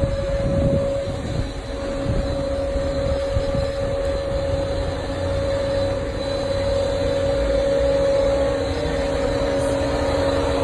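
A vehicle running steadily: a low rumble under a steady hum.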